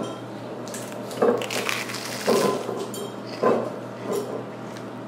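A person biting and chewing a crunchy piece of oven-toasted bread close to the microphone: a handful of irregular crunches a second or so apart.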